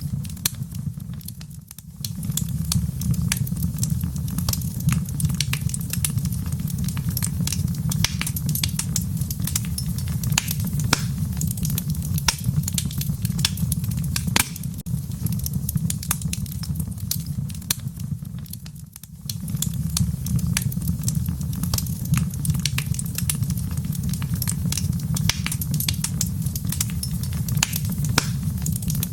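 Wood fire crackling in a fireplace: frequent sharp pops and snaps over a steady low rumble of the flames. The rumble dips briefly about two seconds in and again a little past the middle.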